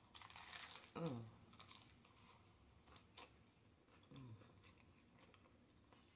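Faint crunch of a bite into a hard taco shell, then quiet close-up chewing. Two short falling hums come from the eater, about a second in and again past the middle.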